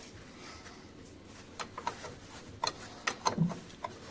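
Scattered sharp metallic clicks and light knocks of hand tools and car parts being handled during reassembly. A faint background at first, then a handful of clicks from about a second and a half in.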